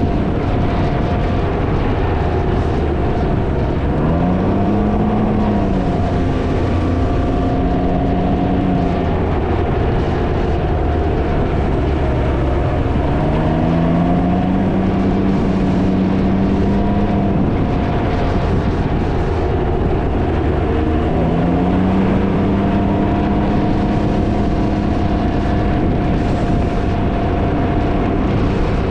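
Can-Am Ryker three-wheeler's engine running under way, its pitch rising three times as it picks up speed and then holding steady. Heavy wind noise on the microphone runs underneath throughout.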